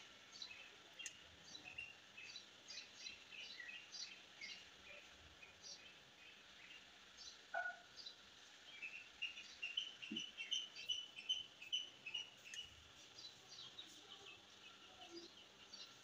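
Faint, rapid bird chirping: many short high chirps, busier from about nine to twelve seconds in, with one short falling whistle about seven and a half seconds in.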